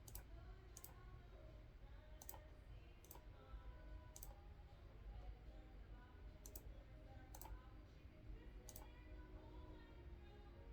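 Sharp, quiet single clicks of a computer mouse, about eight, irregularly spaced roughly a second apart.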